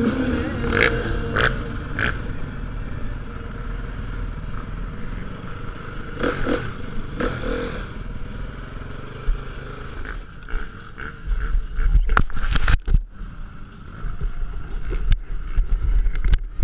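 Motocross motorcycle engine running unevenly, with low rumble and a few sharp clattering knocks about three-quarters of the way through.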